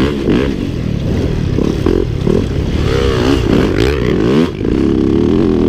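Dirt bike engine ridden hard, its pitch climbing and falling over and over as it revs up and backs off, with a brief drop in loudness near the end.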